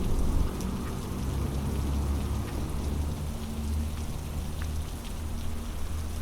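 Heavy rain falling steadily, with scattered drops ticking sharply on a nearby surface and a deep low rumble underneath.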